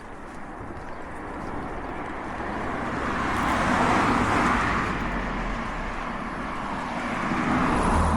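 A car passing on the road, its tyre and engine noise swelling to a peak about four seconds in and fading, then another vehicle approaching near the end.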